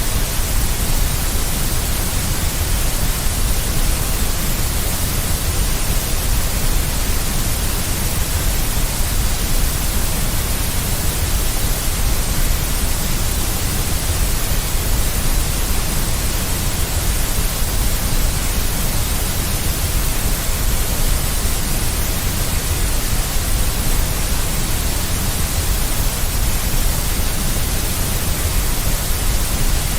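Deep white noise for soothing a baby: a steady, unchanging hiss with a strong deep rumble underneath.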